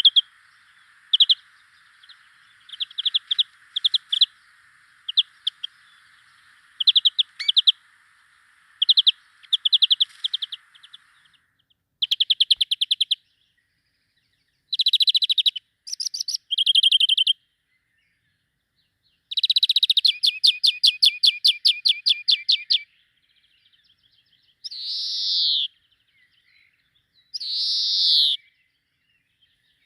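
Small songbirds singing: a run of short chirps for the first ten seconds or so over a faint steady hiss, then rapid trills, and two drawn-out buzzy notes of about a second each near the end.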